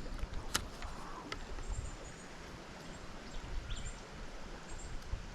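Outdoor background: an uneven low rumble, a couple of sharp clicks about half a second and just over a second in, and a few faint high chirps.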